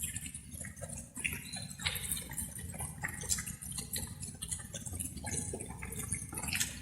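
Water dripping and splashing in quick, irregular drops over a steady low rumble, like light rain falling.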